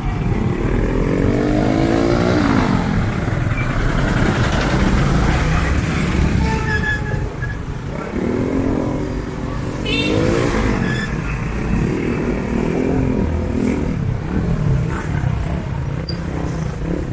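Street traffic dominated by motorcycle engines revving up and falling back, once near the start and again several times in the second half, over a steady low rumble.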